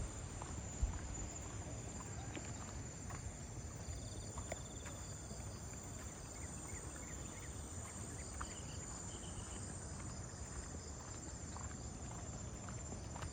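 Insects trilling steadily in tropical vegetation, a high continuous drone with a second pulsing trill coming and going, over footsteps on a path.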